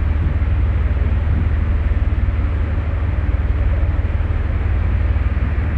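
Steady low engine drone with an even rushing noise over it.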